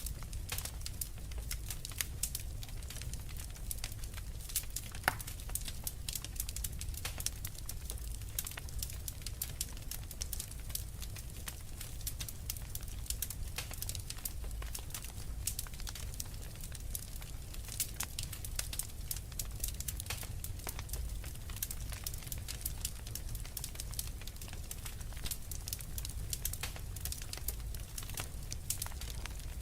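Wood fire burning in a fireplace: a steady low rumble of the flames under dense, irregular crackles and pops, one sharper pop about five seconds in.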